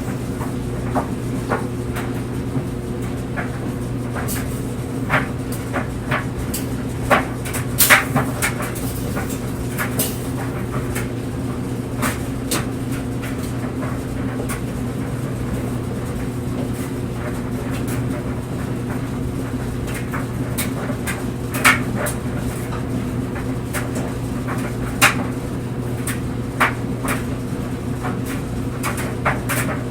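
Clothes dryer running with a steady low hum as the drum turns, while the tumbling load makes irregular knocks and clicks against the drum, a few of them sharper and louder.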